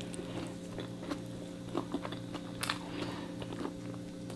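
Close-miked biting and chewing of a toasted bread sandwich with lettuce: wet mouth sounds with a few short, soft crunches. A steady low hum runs underneath.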